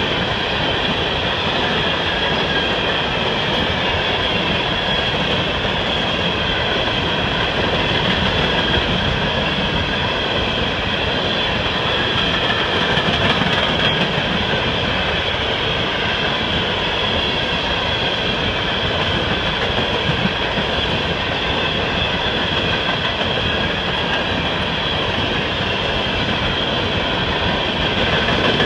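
Empty coal train cars rolling past at close range at a steady speed: a continuous rumble of steel wheels on the rails with a steady high-pitched whine over it.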